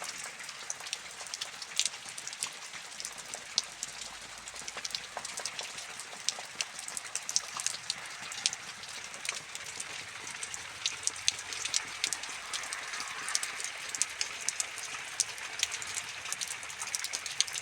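Rain falling steadily, with a hiss and many separate drops ticking sharply on a hard surface.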